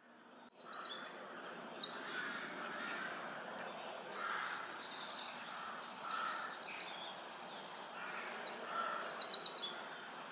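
Several songbirds chirping and trilling, with quick runs of high notes, over a faint steady hiss. It starts about half a second in.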